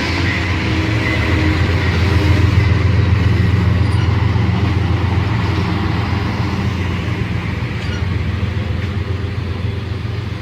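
Amtrak passenger train running into the station beneath an overhead walkway: a steady low engine hum and wheel noise that gradually get quieter as it slows to stop.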